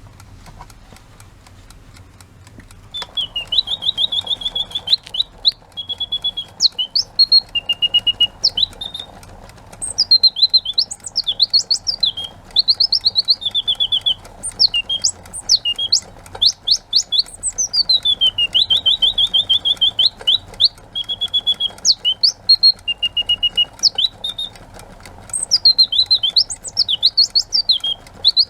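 Birdsong alarm clock going off: recorded bird chirps, trills and whistles begin about three seconds in and play as a phrase that repeats about every seven seconds, over a faint speaker hiss.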